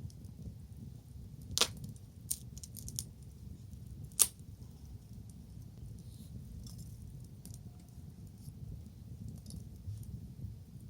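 Wood bonfire crackling, with two sharp loud pops about a second and a half and four seconds in and a few smaller snaps between, over a low steady rumble.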